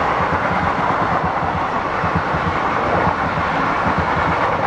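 Passenger train coaches rolling along the track: a steady rumble with irregular low wheel knocks.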